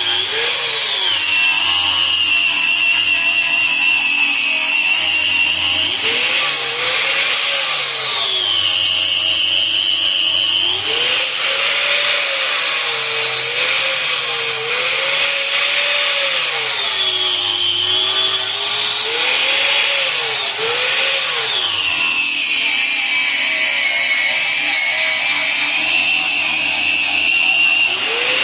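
Handheld electric power tool, such as a grinder, running continuously against the steel frame of a 1953 Chevy 210 to prep it for repair. Its motor whine sags in pitch as it bears in and climbs back as it eases off, several times over.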